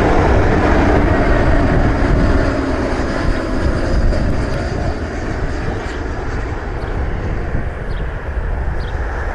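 Jet airliner passing, its engine noise a loud rushing that slowly fades, with a low tone dropping in pitch over the first few seconds.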